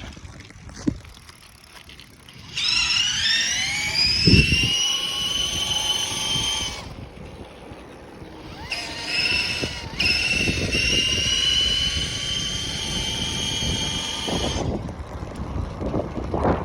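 E-bike's electric motor whining as it accelerates, the pitch rising and then levelling, in two runs of several seconds each, with a pause between, over wind and tyre rumble. A short knock sounds about a second in.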